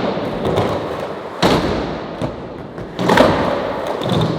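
Skateboard wheels rolling on hard ground, with two sharp board impacts about a second and a half apart, during a backside 360 double kickflip attempt.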